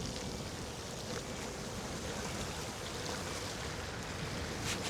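Steady rushing noise of an electric scooter riding through a snowstorm: wind on the microphone and tyres running over the snowy road.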